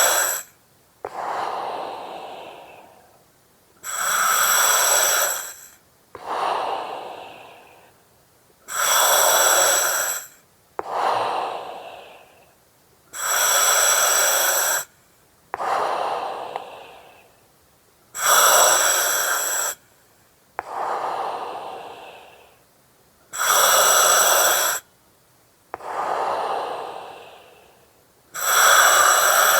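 Slow, regular breathing through an oxygen mask, about six breaths: each one a hard, even hiss through the mask with a ringing whistle in it, followed by a softer breath that fades away.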